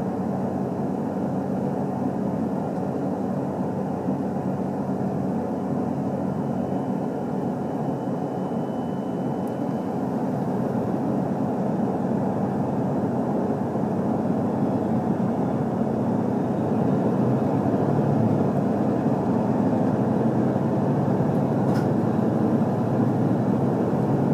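Cabin noise inside an HC85 series hybrid diesel limited-express railcar: a steady low hum and rumble from the train's drive and running gear, growing a little louder from about halfway through.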